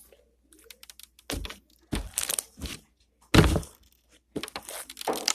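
Fluffy slime squeezed and pressed in the hands, giving sharp crackling pops in several short bursts.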